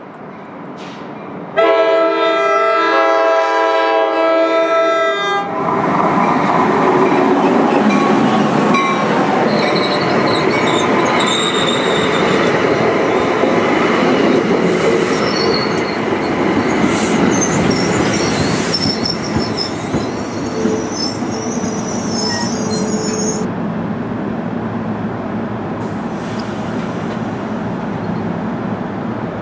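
Train horn sounding one long chord for about four seconds, then a train running past close by, its wheels clattering and squealing on and off in the middle.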